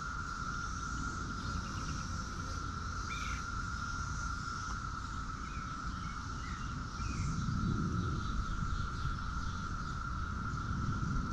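Steady, high-pitched insect drone, typical of crickets or cicadas, with a few short chirps. A low rumble swells up about two-thirds of the way through and again near the end.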